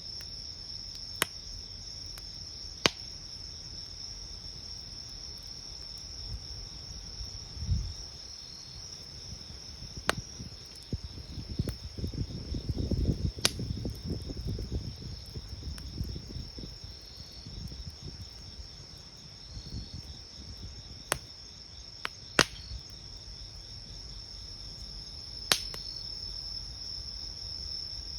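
Wood campfire crackling at night, with a handful of sharp pops scattered through and a stretch of low, rustling flare-up noise in the middle. Crickets trill steadily behind it.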